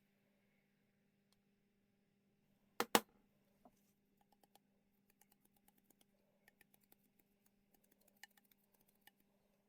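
Faint scattered clicks and taps, with two sharp knocks close together about three seconds in, over a steady low hum.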